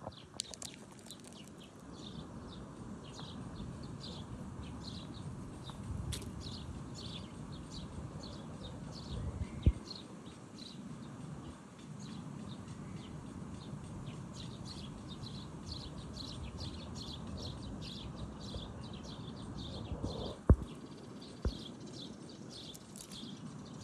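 Birds chirping, with many short, rapidly repeated calls over a low rumble. There are a few sharp knocks, the loudest about twenty seconds in.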